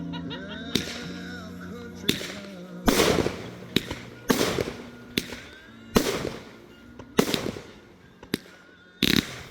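Consumer fireworks going off in quick succession, a sharp bang about once a second, each trailing off in a hissing, crackling haze. Music plays underneath, plainest in the first few seconds before the bangs take over.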